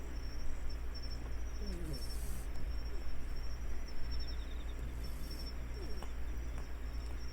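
Outdoor ambience: steady, high insect chirping over a constant low hum, with brief bursts of hiss every few seconds.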